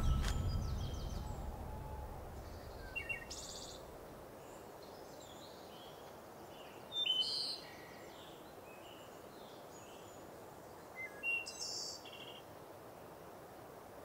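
A low rumble dies away over the first few seconds, then wild birds give a few faint, short chirps and trills, spaced several seconds apart, over quiet background ambience.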